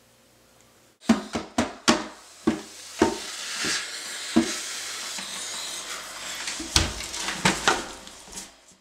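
Irregular knocks and clatter, about a dozen, over a steady hiss, starting about a second in and cutting off suddenly near the end.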